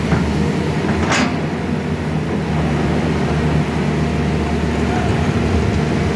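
Sany SY210C-9 excavator's diesel engine running steadily under work, with a brief hiss about a second in.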